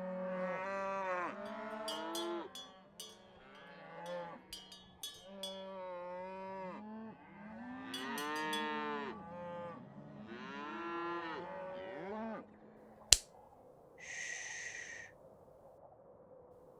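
Cows mooing in a barn, about six long calls in a row, some overlapping. Near the end a single sharp knock, then a brief hiss.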